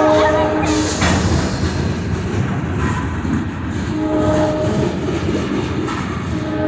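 Norfolk Southern diesel freight locomotive's horn: a long blast cutting off about half a second in, a short blast about four seconds in, and the next long blast starting near the end, the long-short-long pattern of a grade-crossing signal. Beneath it the rumble and wheel clatter of the passing freight cars.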